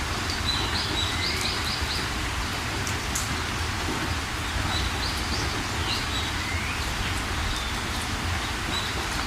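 Steady rain falling, with small birds chirping over it: a quick run of high notes about half a second in and a few more calls around the middle.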